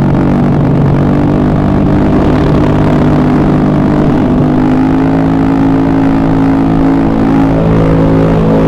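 Honda Beat carburetted scooter's single-cylinder engine, freshly rebuilt with all-new engine parts, running steadily; its pitch creeps up slightly a couple of seconds in and then holds.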